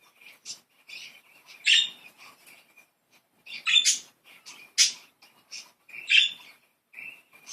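Budgies chattering: short chirps, warbles and squawky calls, irregular, with louder calls about two seconds in and several more in the second half.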